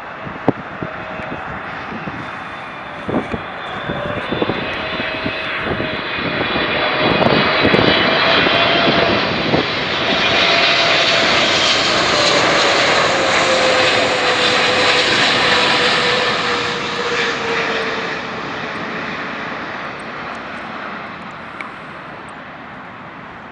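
Jet airliner passing low overhead: its engine noise swells, peaks and fades away, with a whine that drops in pitch as it goes by. A few sharp knocks sound in the first few seconds.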